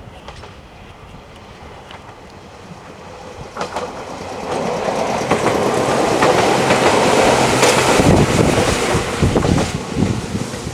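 Meitetsu 6000 series two-car electric train running on the track. The running noise swells sharply about four seconds in and stays loud, with clicking of wheels over rail joints toward the end.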